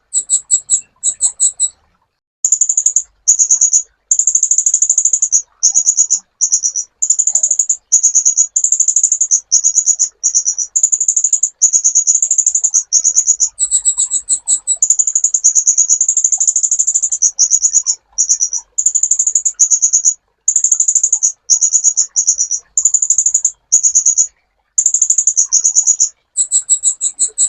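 A kolibri ninja sunbird singing: very high, rapid trilled chattering in short phrases with only brief gaps between them. A few phrases sit higher still, about two seconds in, around fourteen seconds, and near the end.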